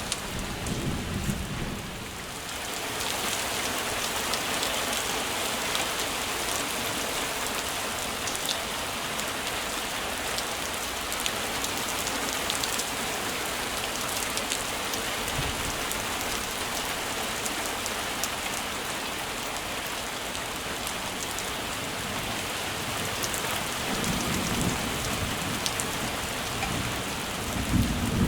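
Heavy rain falling steadily, a continuous hiss of drops. Low rumbles come in during the first couple of seconds and again over the last few seconds.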